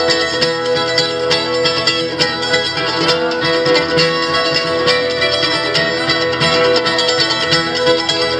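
Acoustic string band playing an instrumental break, with picked guitar and other plucked strings over a held melody line, in a bluegrass or folk style.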